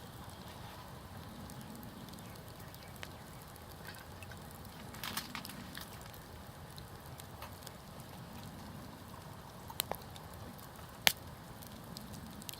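Wood campfire burning with a steady low rustle and scattered crackles, with sharp pops about five seconds in, twice near ten seconds and the loudest just after eleven seconds.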